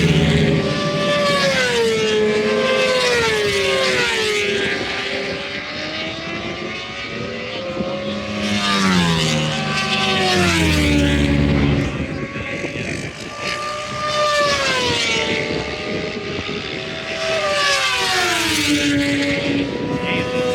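Racing motorcycles going past on track, their high-revving engines rising and falling in pitch as they accelerate, shift gear and pass by. They come in several waves, loudest about nine to twelve seconds in and again near the end.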